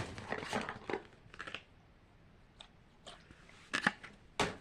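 Toy packaging being handled and torn: crackly rustling of cardboard and plastic for the first second and a half, then scattered clicks and two sharp knocks near the end.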